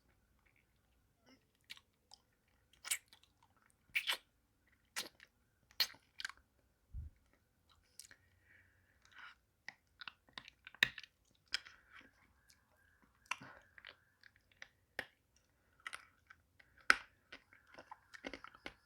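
Close-miked mouth sounds of eating a pacifier-shaped hard-candy lollipop: irregular wet clicks and smacks of lips and tongue on the candy, a few much louder than the rest. There is one low thump about seven seconds in.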